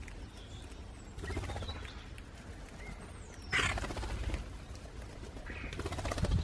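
Common starlings calling on a lawn: scattered chirps, with a falling whistle and a harsh burst about halfway through and another burst near the end, over a low rumble.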